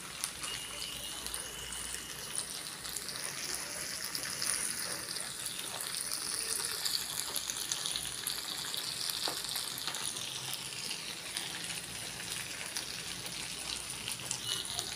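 Marinated mutton chops sizzling steadily as they shallow-fry in a nonstick frying pan, with a few light clicks of tongs turning them.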